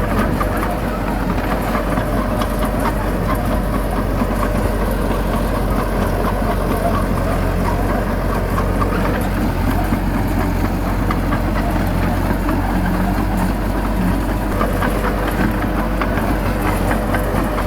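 Heavy diesel earthmoving engine running steadily, with light clanks and ticks scattered throughout.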